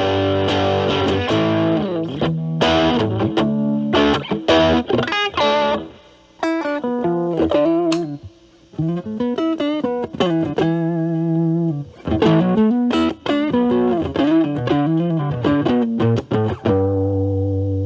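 Electric guitar, a Stratocaster with single-coil pickups, played through an Ibanez Super Metal mini distortion pedal set to low drive, into a Marshall Valvestate amp's clean channel. It plays distorted chords and riffs, then after a brief pause about six seconds in it cleans up into clearer single-note lines with vibrato. It ends on a held chord left ringing.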